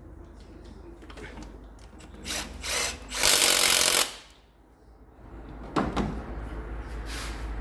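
Power tool running a bolt in: two short blips, then a steady run of under a second, with a sharp click near the end.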